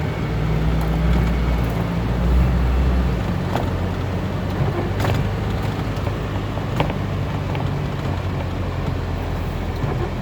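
Ferrari engine running with a deep, low rumble, loudest for the first three seconds and then easing to a quieter steady drone.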